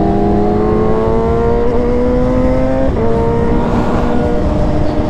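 Sportbike engine pulling steadily up through the revs in gear, then an upshift about three seconds in drops the pitch abruptly and it carries on at lower revs, with wind rushing over the rider's microphone.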